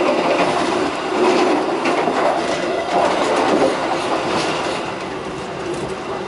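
A moving passenger train heard from on board: a steady rumble of wheels on the rails with light clickety-clack over the track joints, a little quieter in the last second or so.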